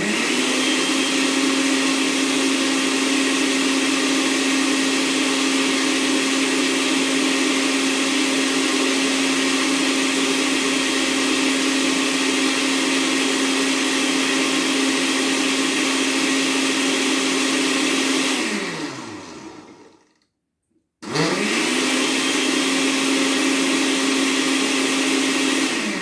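Countertop blender running steadily, blending boiled carrots and pumpkin thinned with water. It is switched off about eighteen seconds in and winds down with a falling pitch, stays silent for about a second, then starts again and runs on.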